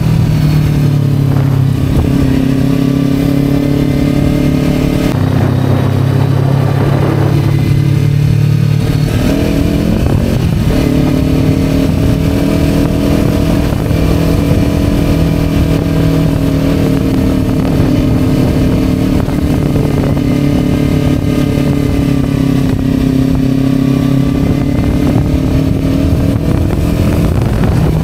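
Kawasaki Ninja 250 motorcycle engine running on the road under way. About nine to ten seconds in its note shifts and climbs, then holds fairly steady with slow, gentle rises and falls.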